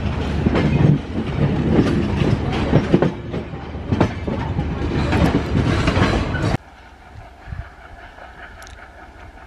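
A train running past close by, its wheels clattering over rail joints in rapid, irregular clacks. The sound cuts off abruptly about two-thirds of the way in, leaving only a faint low rumble of a diesel-hauled train approaching in the distance.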